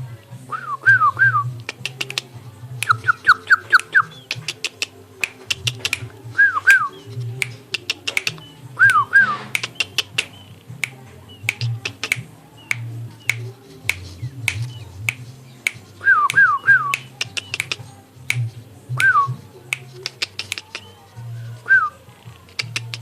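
Yellow-vented bulbul (trucuk) giving short chirps in quick clusters of two to four, repeated every few seconds, among many sharp clicks and over a low background hum.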